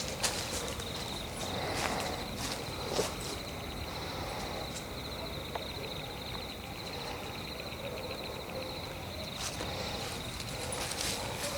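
Night-time forest ambience: insects trill steadily at a high pitch with a fast pulse, and a few footsteps crunch on the forest floor in the first three seconds. The steps pause through the middle and start again near the end.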